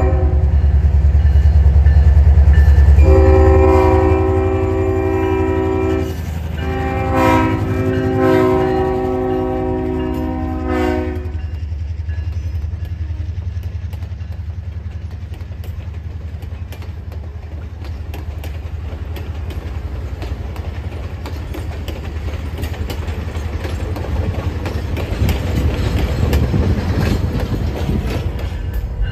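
EMD GP38 diesel locomotive with a 16-cylinder two-stroke engine, running loudly as it passes. Its air horn sounds two long blasts, the second one longer, ending about eleven seconds in. After that, the passenger cars roll by with a steady rumble and wheel clatter that grows louder near the end.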